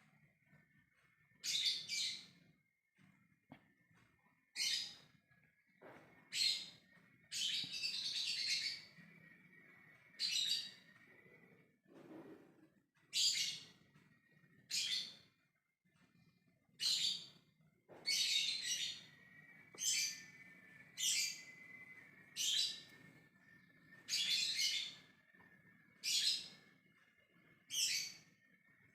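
Lovebird giving short, shrill, high-pitched calls over and over, roughly one every one to one and a half seconds.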